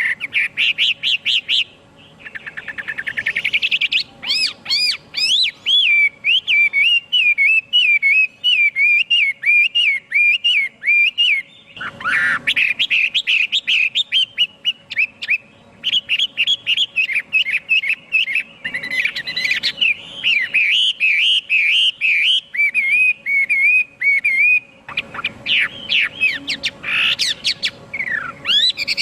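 Chinese hwamei singing: a long, varied run of loud whistled notes, rapid trills and warbling phrases that rise and fall, broken by short pauses about twelve and about twenty-five seconds in.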